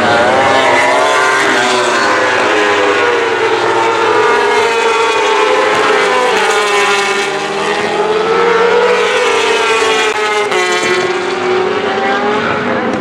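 Superbike engines at race speed, several bikes together, their pitch sweeping up and down as they rev through the gears and pass.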